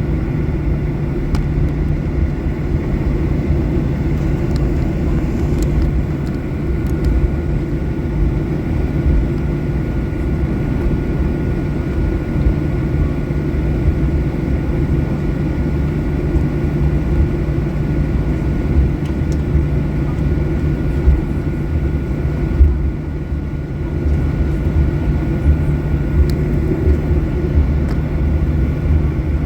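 Boeing 737-800 cabin noise: the CFM56 jet engines and airframe give a steady low rumble with a faint constant whine, and a few light clicks on top.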